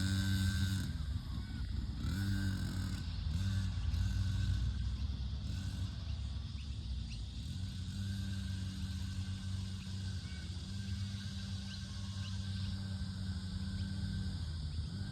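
Dirt bike engine running, its pitch dipping and rising a few times in the first few seconds, then holding steady.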